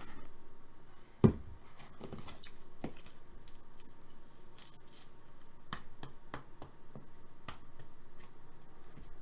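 Trading cards and packs being handled on a table: light clicks, taps and rustles, with one sharp knock about a second in.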